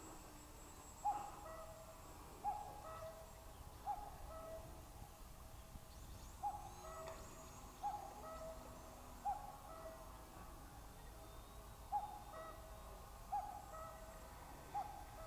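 A bird's repeated hooting call: each call is a short higher note dropping to a lower one, coming about every second and a half in runs of three with short pauses between the runs.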